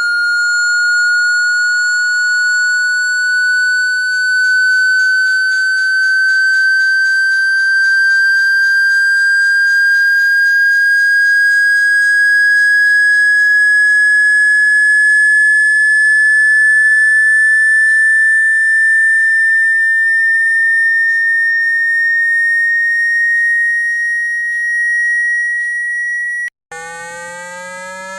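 Generated water-eject tone for clearing a phone speaker: a single high, steady tone sliding slowly upward in pitch. It cuts off suddenly near the end, and a quieter, lower, buzzier tone starts rising.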